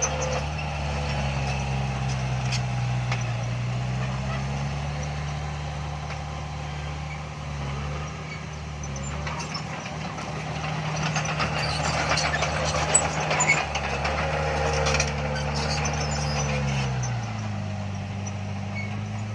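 Diesel engine of heavy earthmoving equipment running under changing load, its pitch sagging and recovering, then dropping near the end. A few sharp metallic clanks come about two-thirds of the way through.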